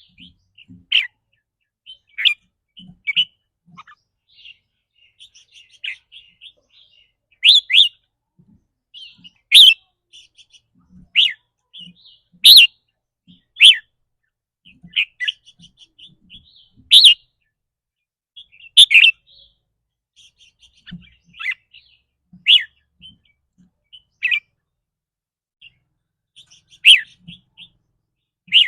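Red-whiskered bulbul giving its sharp "rik" calls: loud, short, high calls every second or two, with softer twittering between them.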